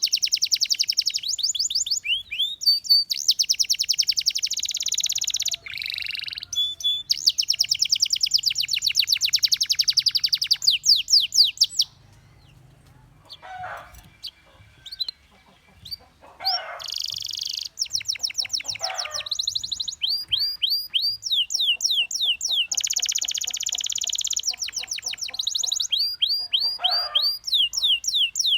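Canary singing: long fast trills of repeated notes and runs of falling whistled notes, breaking off for a few seconds about halfway through before starting again.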